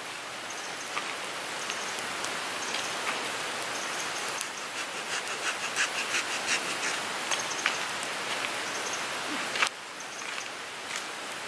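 Wood fire crackling: a steady hiss of burning with many small snaps, coming thick and fast around the middle, and one sharp pop near the end.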